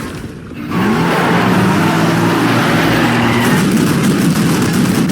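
Cartoon truck engine sound effect. After a brief dip, the engine revs up in pitch about a second in, then runs steadily at speed.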